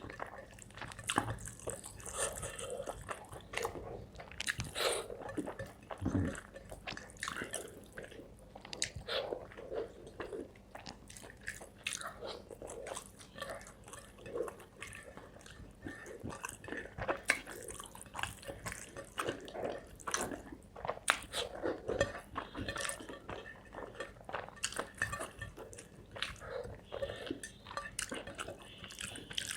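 Close-miked eating of spicy chicken curry with rice: wet chewing and biting with many irregular smacking clicks, throughout.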